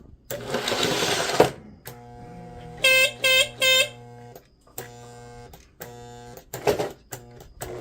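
Battery-powered horn of a Lionel 2032 Erie FA-1 toy diesel locomotive sounding three short blasts about three seconds in, over a steady electrical hum. A buzzing rattle comes in the first second or so, and a few clicks near the end.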